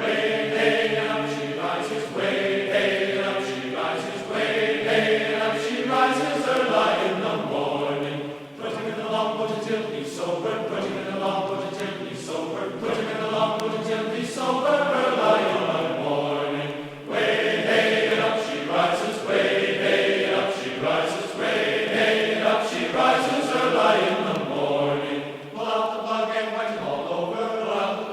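A sea shanty sung by a choir of voices, in phrases with short breaks between them.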